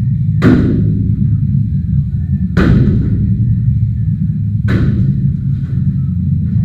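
Three heavy smashing blows about two seconds apart, each a sharp crash that rings off briefly, with a weaker hit near the end, over a steady low rumble.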